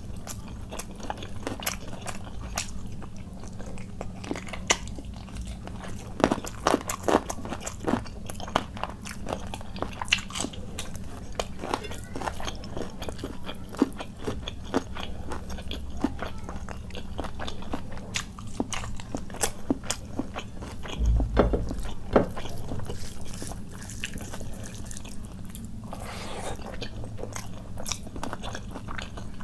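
Close-miked mouth sounds of eating khichuri and chicken curry by hand: wet chewing with many sharp smacks and clicks, and fingers squishing rice on the plate. A low thump comes about two-thirds of the way through.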